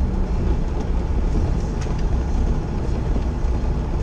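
Steady low rumble of a semi truck's diesel engine and road noise, heard from inside the cab.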